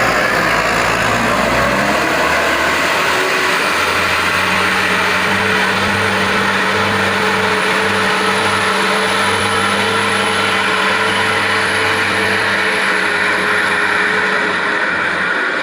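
Heavy truck engine running loud and steady, with a level drone.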